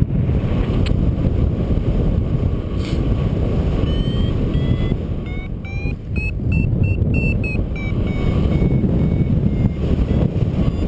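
Strong wind rumbling over the microphone, with a flight variometer beeping from about four seconds in: short beeps that rise in pitch and come faster for a few seconds, then ease slightly, the vario's climb tone signalling lift.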